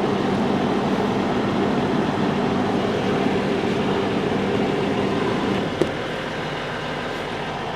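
Semi truck's diesel engine idling steadily with a hum in it; the hum stops with a click just under six seconds in, leaving a quieter steady running noise.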